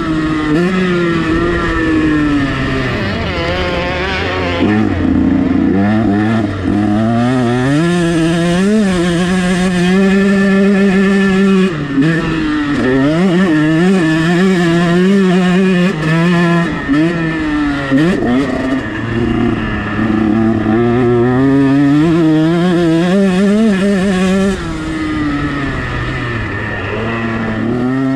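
KTM 125 SX two-stroke single-cylinder engine being ridden hard, its pitch repeatedly climbing and falling as the rider works the throttle and shifts, with a couple of brief throttle cuts.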